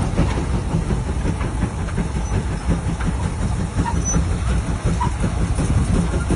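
Large steam traction engine running: a steady low rumble with continuous mechanical clatter and rattling.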